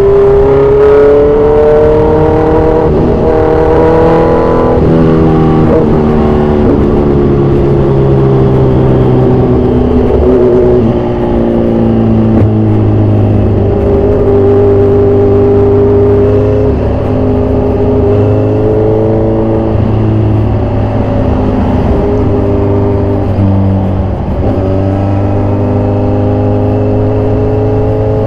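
2014 Kawasaki Z1000's 1043 cc inline-four through an aftermarket exhaust, revving hard under acceleration. Its pitch climbs and drops back at each of several upshifts.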